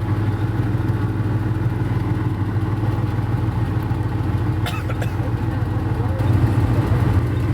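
Suburban's engine and drivetrain running with a steady low drone, heard from inside the cab while driving slowly in snow, with a short click about halfway through.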